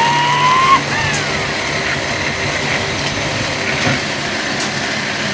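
A small engine running steadily. Near the start there is a short rising tone, followed by a brief falling glide.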